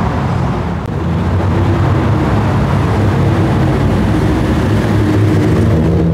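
Car engine running steadily at close range, a low even note with no revving.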